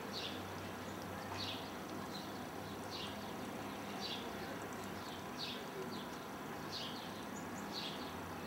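A bird chirping repeatedly, short high chirps about twice a second, over a steady low hum and outdoor background noise.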